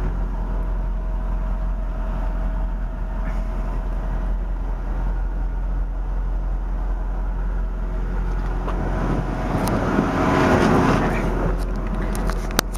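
2000 Chevrolet Corvette's 5.7 L V8 idling steadily, heard from inside the cabin. A brief rustling rush rises about ten seconds in, and a sharp click comes near the end.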